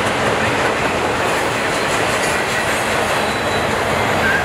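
Autorack freight cars rolling past, a steady, unbroken noise of steel wheels running on the rails.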